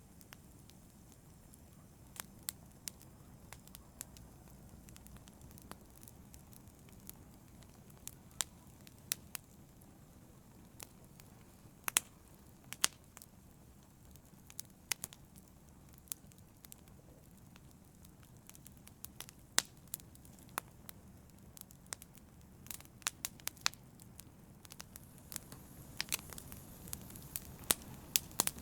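Wood fire burning in a fireplace, crackling and popping: a low steady rumble under irregular sharp snaps, with a cluster of more frequent pops near the end.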